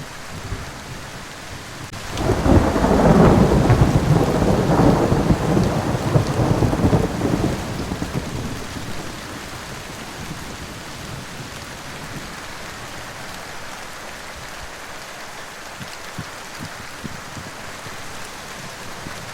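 Steady rain falling, with a long roll of thunder that swells about two seconds in and rumbles away over the next several seconds.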